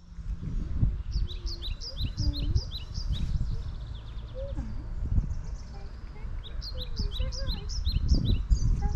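A songbird singing runs of rapid, repeated short falling chirps, twice, over a loud, uneven low rumble.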